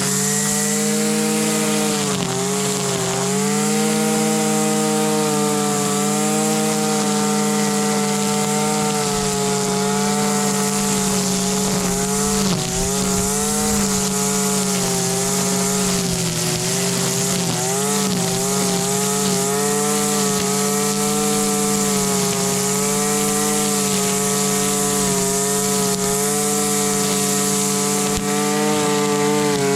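Husqvarna 326LD string trimmer's small two-stroke engine running at high revs. The engine holds a steady high pitch that dips briefly a few times, at about two, twelve and seventeen seconds in.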